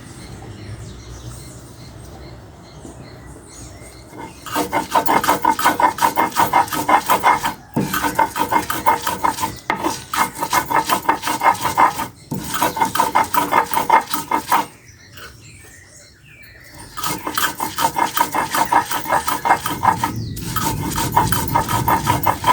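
Fast rhythmic scraping by hand, about five strokes a second, in runs of several seconds broken by short pauses: coconut being worked for chutney.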